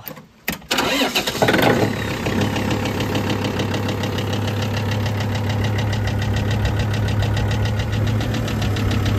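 Kubota L3750 tractor's diesel engine cranking on the starter about a second in, catching after its glow plugs have heated and settling into a steady idle.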